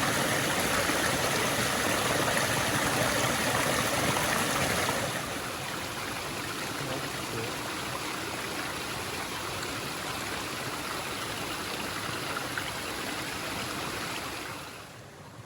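A woodland stream running steadily over rocks, an even rush of water. It drops in level at about five seconds, and again near the end.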